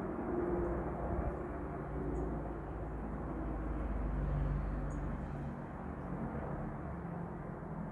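Low, steady rumble of a distant engine, with a few faint, short high bird chirps twice.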